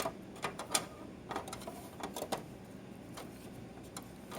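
Small plastic Sylvanian Families toy pieces being handled, giving about a dozen irregular light clicks and taps.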